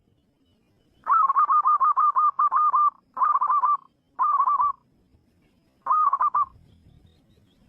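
Zebra dove cooing in four phrases of quick, rolling notes, the first the longest at nearly two seconds and the other three short.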